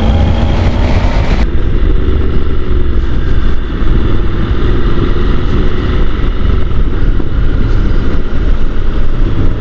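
Motorcycle on the move, heard from the rider's helmet microphone: wind rushing and buffeting over the mic with the engine running steadily underneath. About one and a half seconds in, the higher hiss drops away sharply.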